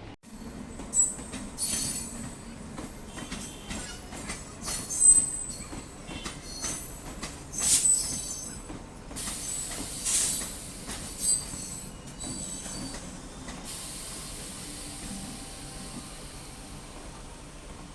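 MEMU electric train running on the track, with repeated high-pitched wheel squeals and irregular clattering over the first dozen seconds, then a steadier hiss.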